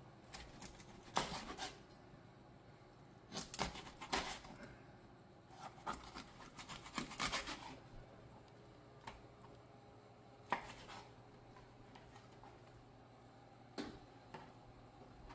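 Raw chicken being cut up on a board: scattered knocks and scraping sounds come in a few short clusters, with quiet gaps between them.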